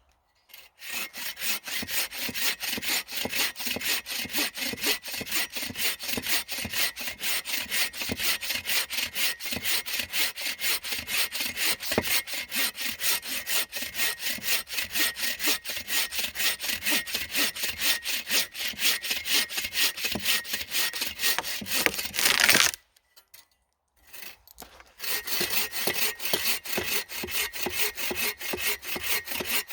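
Hand saw cutting through wood in rapid, even back-and-forth strokes. It stops for about two seconds near the end, then starts sawing again.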